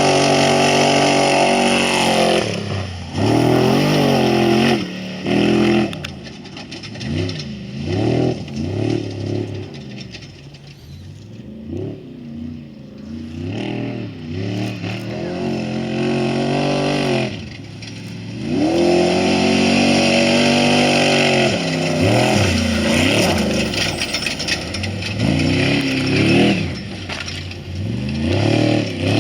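Off-road race vehicle engines revving hard, the pitch rising and falling again and again through throttle bursts and gear changes. Loud at the start and again in the last third, with a quieter stretch in the middle.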